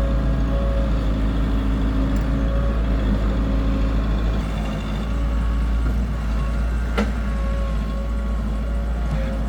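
Heavy diesel engine of construction machinery running steadily, with one sharp click about two-thirds of the way through.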